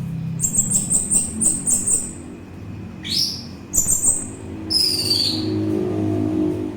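Orange-headed thrush (anis merah) singing: a quick run of high chirping notes, then several separate phrases, one of them a downward-sliding whistle. A low, steady rumble runs underneath.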